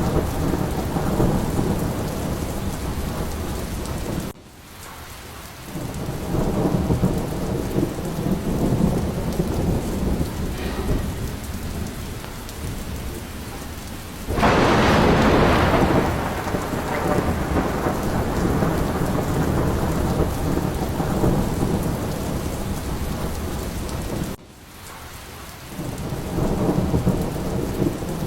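Steady heavy rain with a low rolling rumble of thunder. About fourteen seconds in there is a louder, sharper thunderclap that fades over the next couple of seconds. The sound drops off abruptly twice, about four seconds in and near the end, then swells back up.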